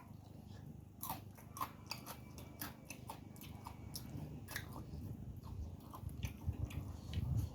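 A person chewing crunchy food close to the microphone: sharp crisp crunches start about a second in, over steady mouth chewing that gets heavier near the end.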